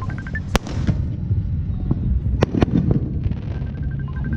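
Fireworks going off: sharp cracks about half a second in and a quick cluster of them about two and a half seconds in, over a continuous low rumble of further bursts.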